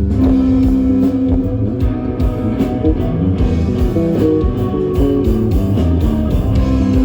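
Live rock band playing an instrumental passage, electric guitar to the fore over a steady beat.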